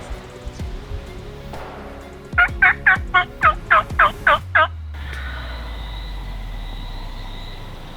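A wild turkey yelp series: eight loud, evenly spaced notes, about three and a half a second, lasting a little over two seconds, starting about two and a half seconds in.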